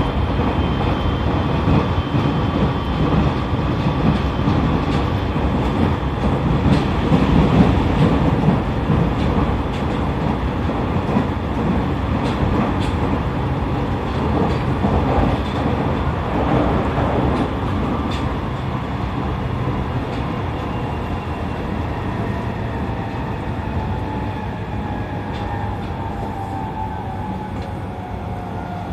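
E501-series electric train running along the track: a steady rumble of wheels on rail with a few clicks. In the second half a motor whine falls steadily in pitch as the train slows.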